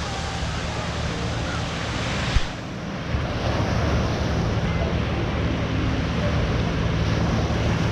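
Ocean surf washing on the beach, with wind buffeting the microphone in a low rumble. A sharp click comes about two and a half seconds in, after which the noise sounds duller.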